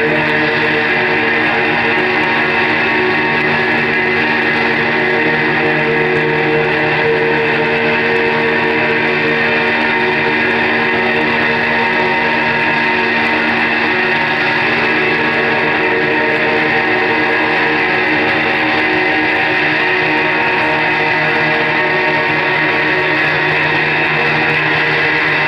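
Live electric guitar music: a dense, sustained wall of held notes at an even loudness, with no clear beat.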